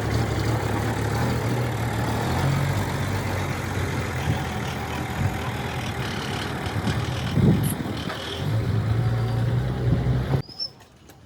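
Bulldozer's diesel engine running steadily with a low hum, cutting off abruptly about ten seconds in.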